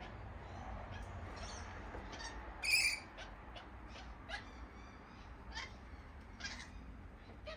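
Birds calling in short, scattered notes, with one loud, harsh call about three seconds in, over a faint low rumble.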